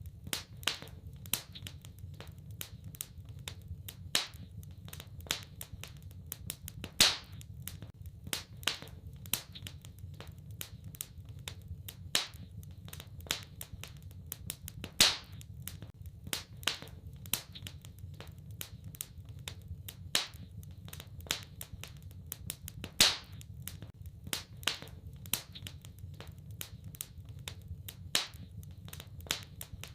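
Wood fire in a fireplace crackling steadily, with many small snaps over a low rumble and a louder pop every several seconds.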